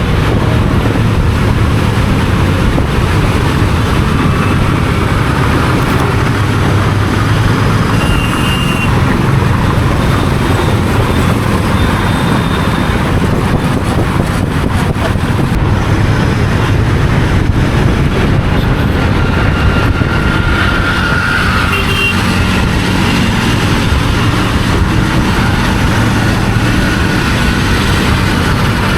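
Royal Enfield Continental GT 650's 648 cc parallel-twin engine running through its stock exhaust at a steady throttle while the motorcycle cruises, under a constant rush of noise.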